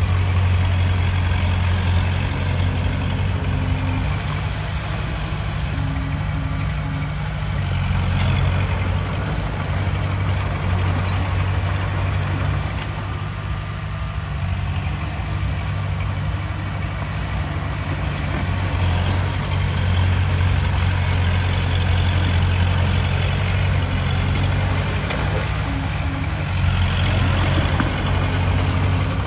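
Heavy diesel engine of earthmoving machinery, a bulldozer or dump truck, running steadily under load with a strong low hum.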